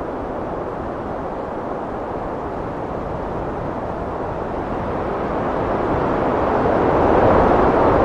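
Heavy wind blowing in a steady rushing roar, swelling louder in a gust over the last few seconds.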